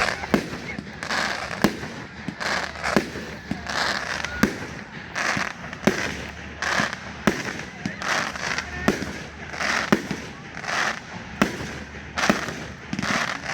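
Fireworks display: a steady run of aerial shell bursts, sharp bangs roughly once a second, each followed by a hissing spray of noise.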